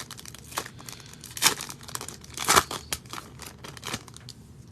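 Plastic wrapper of a football trading card pack being torn open and crinkled, in irregular crackling rips, the loudest about one and a half and two and a half seconds in.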